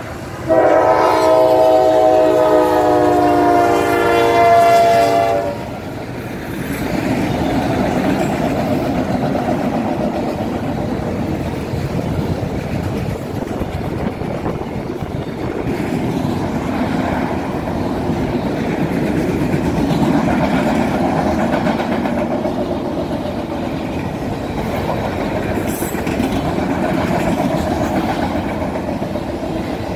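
The horn of a CSX GE ES44AH diesel locomotive sounds one long blast of about five seconds. Then the locomotive and its train of enclosed autorack cars roll past close by, a steady rumble of wheels on rails.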